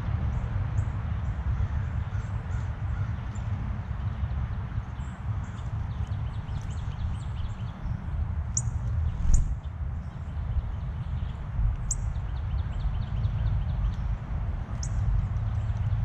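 Songbirds calling: scattered short high chirps, a few sharper ones around the middle, and two rapid trills. Under them runs a steady low rumble of outdoor noise.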